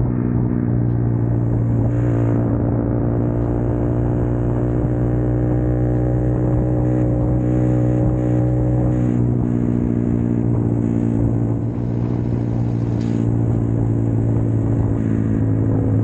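Small single-cylinder motorcycle engine running steadily at an even cruising speed, heard from on the bike.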